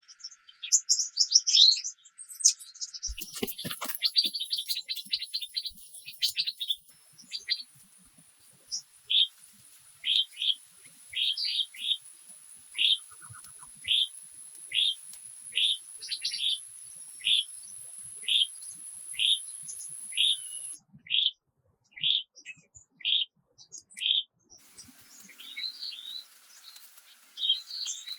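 Forest birds calling: a burst of mixed chirps, then one bird repeating a short high call about three times every two seconds. A steady thin high-pitched whine sits underneath and cuts off abruptly about three-quarters of the way through.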